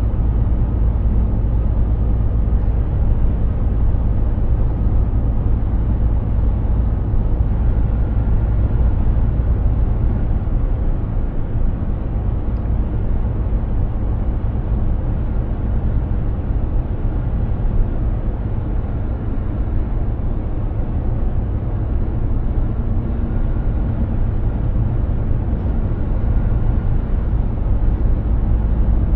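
Mercedes-Benz Actros truck on the move: a steady low rumble of engine and road noise, slightly lower in level for a while around the middle.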